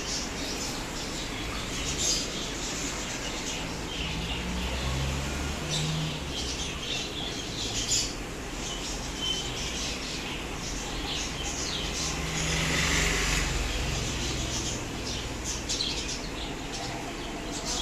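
Birds chirping in short, scattered calls over a steady outdoor noise bed, with a louder noisy swell about two-thirds of the way through.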